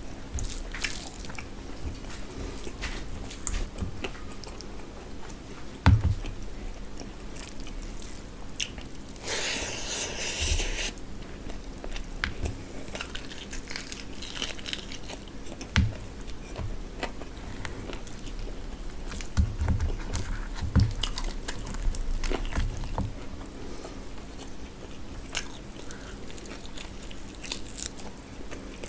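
Close-up eating sounds: wet chewing, biting and lip-smacking while eating rice and mutton curry by hand, with many small clicks. There is a sharp thump about six seconds in, and a louder hissy stretch about ten seconds in.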